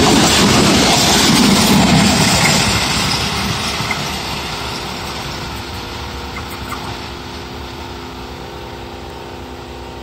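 Passenger train coaches rolling past close by, wheels running on the rails, slowing for a station stop just ahead. The rolling noise fades away over several seconds as the train moves off, leaving a faint steady engine hum.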